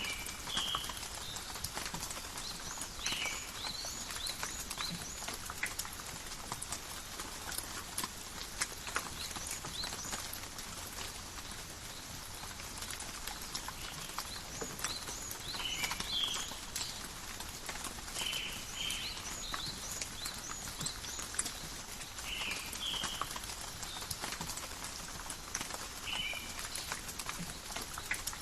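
Steady rain falling in a forest, with close drops ticking and dripping, and short high chirps from a small animal every few seconds.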